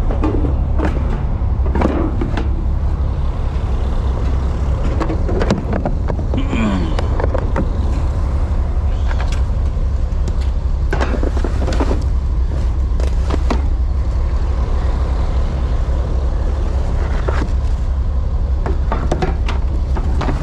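A fishing trawler's diesel engine running steadily with a deep, even drone, with scattered knocks and clatter on deck over it.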